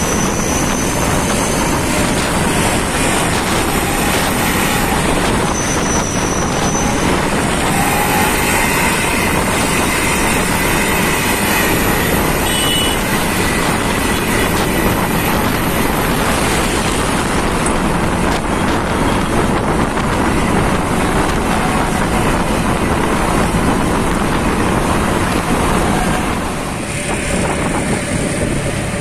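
Truck engine running loud and continuous through a newly fitted aftermarket racing exhaust, with a brief dip in level near the end.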